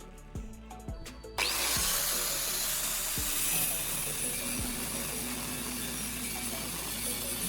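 Angle grinder cutting through a U-shaped iron bar: a loud, steady grinding hiss that starts abruptly about a second and a half in and keeps on, over background music.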